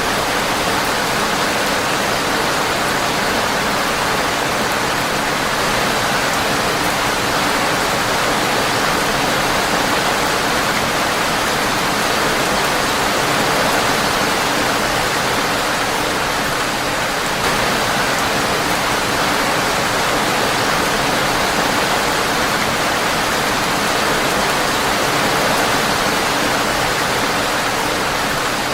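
Steady rain falling on a windowpane, a dense, even hiss of drops that does not let up.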